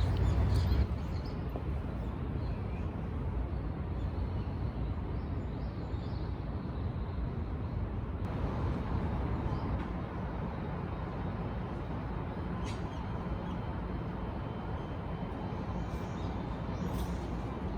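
A steady hum of distant city traffic, with faint, occasional bird chirps and a few light clicks.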